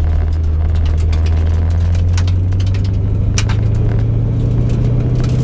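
A Ford 5.0 V8 in a 1989 Mustang GT running at low rpm, its note rising slowly and steadily as the car eases along under light throttle. Sharp clicks sound now and then over the engine.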